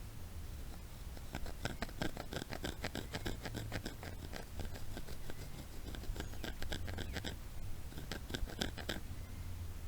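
Knife carving wood: a quick run of short scraping strokes, broken by two brief pauses.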